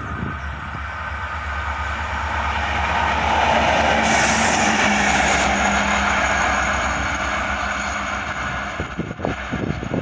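Diesel locomotive with an EMD 16-645 engine running light past the listener: a steady engine drone and rail noise that build to a peak a few seconds in and then fade, with a brief high hiss at the loudest point.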